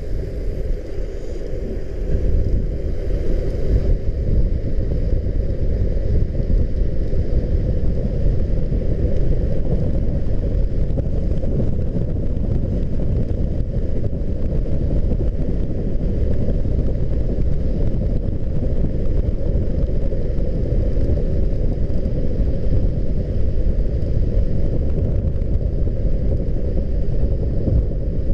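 Steady low rumble of wind buffeting the microphone while riding a bicycle, mixed with the noise of its tyres rolling.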